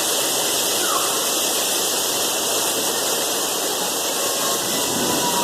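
Heavy downpour of rain mixed with hail, a steady dense hiss.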